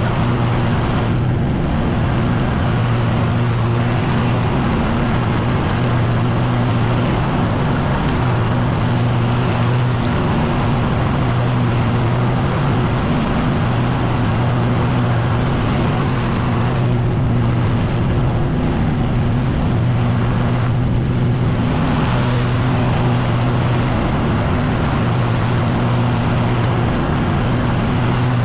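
Echo PB-9010T two-stroke backpack leaf blower running steadily at high throttle, a constant engine drone under a wide rush of air.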